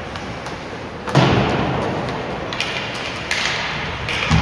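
A loud bang against the boards of an ice hockey rink about a second in, echoing through the arena as it fades, and a second bang near the end. Short scraping hisses come in between.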